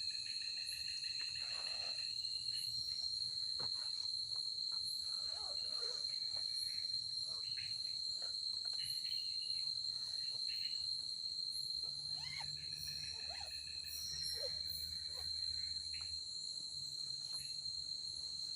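Forest insects, such as crickets, keeping up a steady high-pitched chorus, with scattered fainter short calls underneath.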